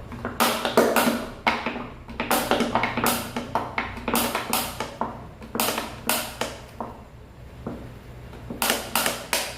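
Small dog biting a plastic bottle, the bottle crackling and crunching in quick clusters of sharp clicks, with a pause of about two seconds before a last burst near the end.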